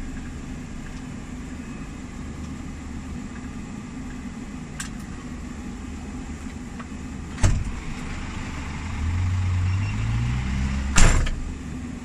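Scania G460 lorry's straight-six diesel running steadily, heard from inside the cab. A sharp knock comes about 7.5 s in; then the engine revs up, rising in pitch in steps, and a short, loud sharp burst is heard about 11 s in.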